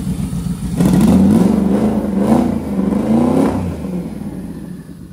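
Twin-turbo Ford Coyote 5.0 V8 idling, then revved a few times in quick succession by hand at the throttle, the pitch rising and falling with each blip, before dropping back down toward idle.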